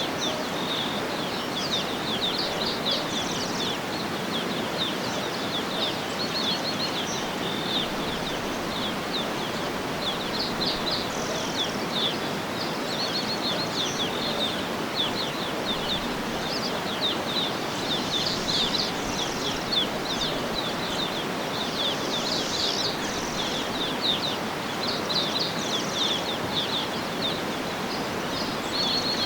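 Many small birds chirping and twittering continuously over a steady background of even, rushing noise.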